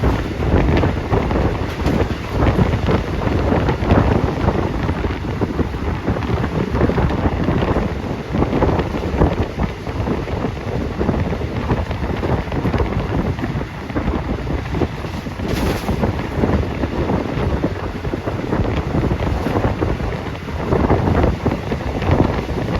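Wind buffeting the phone's microphone: a loud, gusty rumble that rises and falls.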